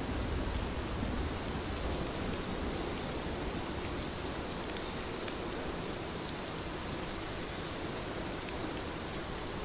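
Heavy rain falling steadily: a dense, even hiss with scattered sharper drop taps, and a low rumble fading over the first second or two.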